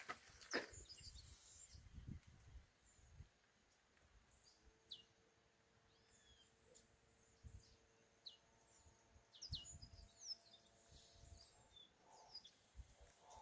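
Faint birdsong: scattered short, high chirps that drop quickly in pitch, over a quiet rural background. A faint steady hum sits under the chirps for several seconds in the middle.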